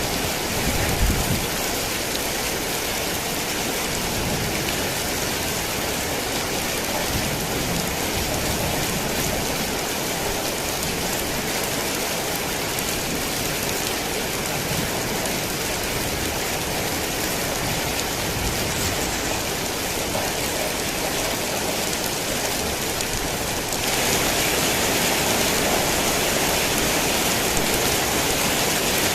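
Heavy rain falling steadily, an even hiss of rain on surfaces. There is a brief low thump about a second in, and the rain abruptly turns louder and brighter a few seconds before the end.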